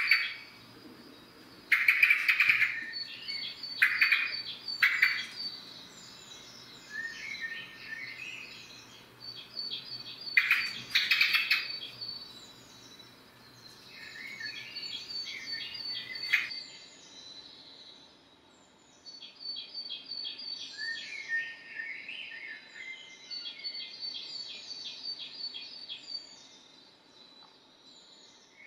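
Common blackbird singing: a run of short song phrases, each with lower notes followed by high twittering, repeated throughout, with several loud sharp calls in the first twelve seconds.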